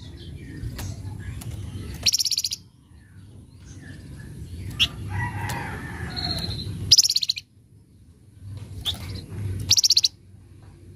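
Flamboyan songbird giving short, harsh rattling chatters, four bursts of rapid notes with a brief clear note between, over a low steady rumble.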